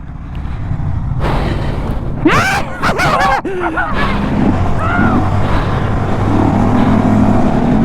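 Mini bike engine running under way with wind rushing over the helmet microphone, swelling over the first second. A brief pitched sound rises and falls about two to three seconds in, then the engine settles into a steady note.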